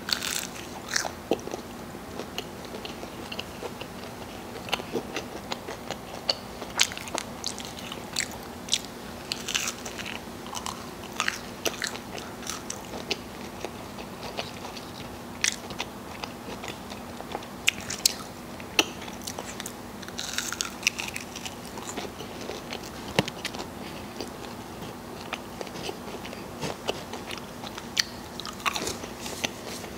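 A person biting and chewing Wendy's chicken nuggets dipped in ranch: irregular crunchy clicks and crackles throughout.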